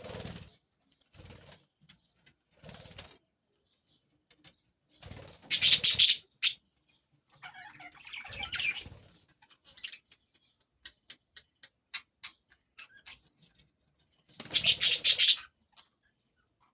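Lovebirds squabbling, males fighting over a female: scuffling and wing-flapping, with two loud bursts of flapping, one about five and a half seconds in and one near the end, and a run of short sharp ticks in between.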